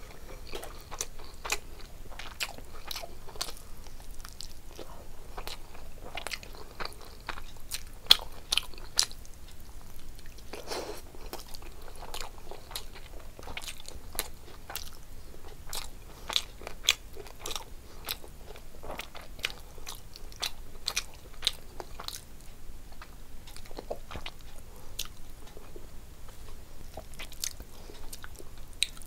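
A person chewing mouthfuls of rice and fish curry eaten by hand, with many short, sharp, irregular mouth clicks; the loudest comes about eight seconds in.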